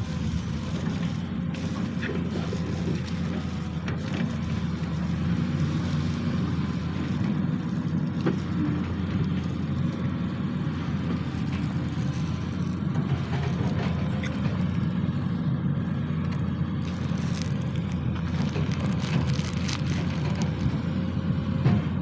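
SANY SY215C excavator's diesel engine running steadily under work, with a few short clicks and knocks scattered through it.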